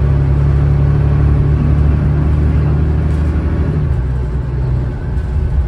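Alexander Dennis Enviro500 double-decker bus's Cummins ISLe six-cylinder diesel engine running hard with a steady drone; its note steps down lower about four seconds in.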